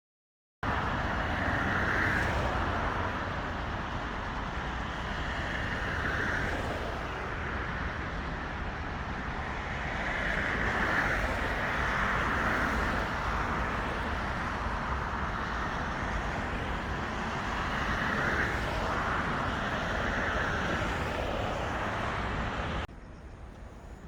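Road traffic noise, with vehicles passing one after another in swells every few seconds over a steady rumble. It cuts off suddenly near the end to a much quieter background.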